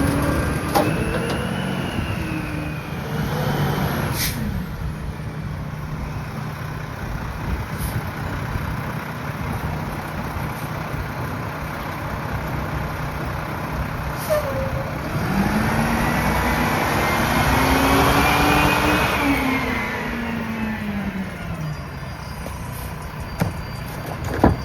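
Garbage truck's diesel engine running steadily, revving up and back down as the rear-loader packer blade cycles the trash, with the rev strongest about two-thirds of the way in. A brief sharp hiss sounds near 4 seconds in.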